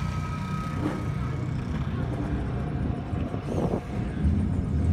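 Car engine running at low revs close by, a steady low rumble that grows louder near the end.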